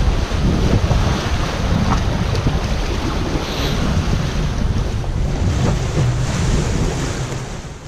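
Wind buffeting the microphone over the steady rush of open-ocean waves.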